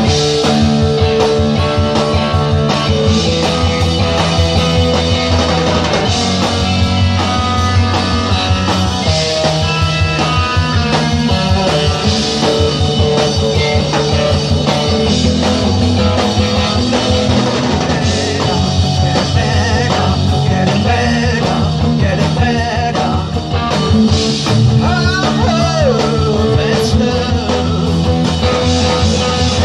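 Rock band playing live, with electric guitar over bass and drums in a steady beat. Bent guitar notes come about 25 seconds in.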